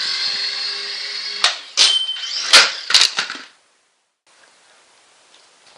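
A small remote-controlled toy helicopter's electric motor and rotor whine steadily at a high pitch. About a second and a half in, the whine gives way to a string of sharp knocks and clatters, and everything cuts off about three and a half seconds in.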